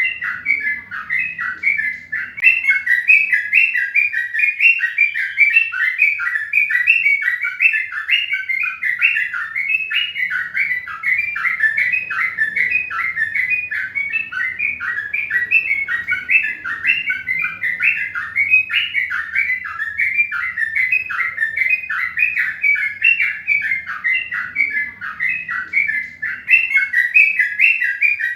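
Birds chirping without pause: a dense, even run of short, high chirps, several a second.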